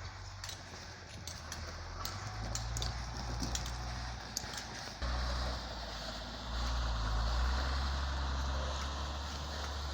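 Heavy diesel machinery engine running at a quarry, its low rumble rising under load in steps about five and six and a half seconds in. Scattered sharp clicks and knocks come over the first half.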